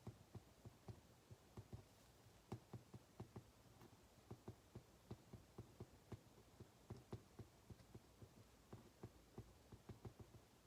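Faint, irregular taps and clicks of a ballpoint pen writing on paper at a desk, several per second.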